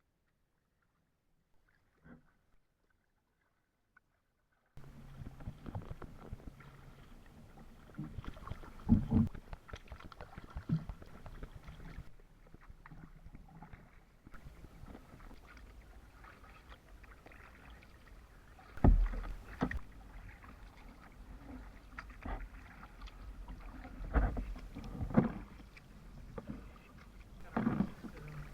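Sea kayak being paddled: steady water noise with irregular paddle strokes and occasional low thumps, starting after about five seconds of silence.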